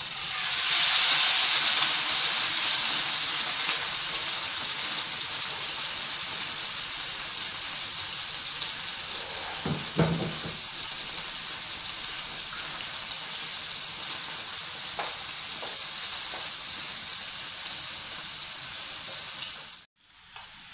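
Bean curd (tofu) cubes frying in hot oil in a frying pan: a loud sizzle that starts suddenly as they are tipped in, then settles into a steady sizzle. One knock about halfway through; the sound cuts off near the end.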